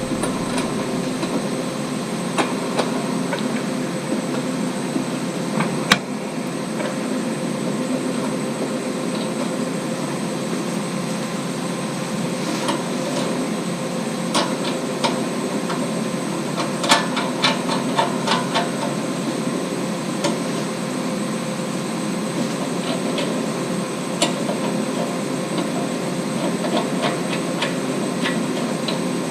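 A steady machine hum with scattered sharp metallic clicks and taps, bunched together a little past the middle.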